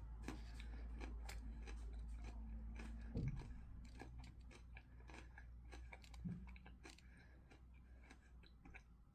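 Close-up chewing of a mouthful of pasta: a run of small wet mouth clicks over a low hum, with two brief low sounds about three and six seconds in.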